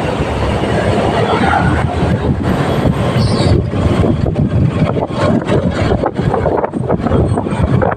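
Motorcycle riding along the road: engine and road noise with wind buffeting the microphone.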